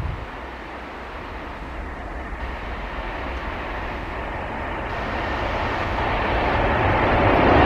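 EP20 electric locomotive and double-deck passenger train approaching at speed. The rumble of its wheels on the rails grows steadily louder as it nears.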